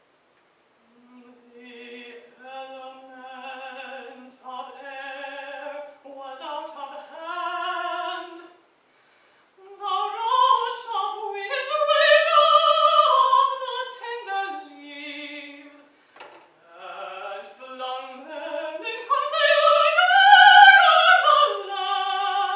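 Mezzo-soprano singing a slow classical art song without accompaniment, in three phrases: the first starts low and quiet and climbs step by step, the next two rise to louder high notes, the loudest near the end. Short breaths between phrases about 9 and 16 seconds in.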